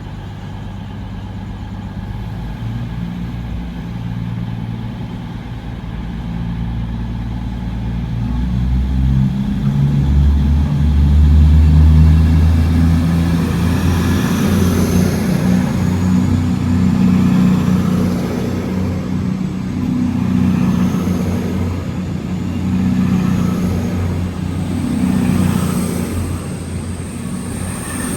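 Train's diesel engines running and revving up, the low engine note stepping up in pitch and getting louder to a peak about halfway through, with a faint high whine near the end.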